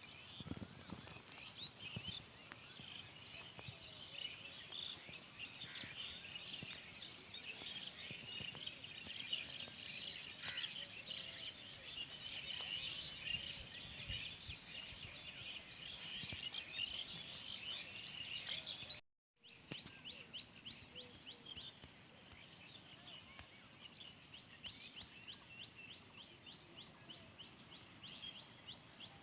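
Faint outdoor birdsong: many small birds chirping together in a high, busy chorus. It drops out for a split second about two-thirds of the way through, then continues as a quick, even run of short high chirps.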